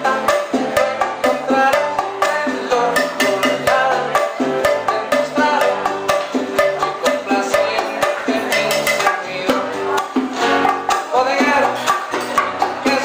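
Live Cuban band music, with hand percussion beating a steady dance rhythm over a stepping bass line.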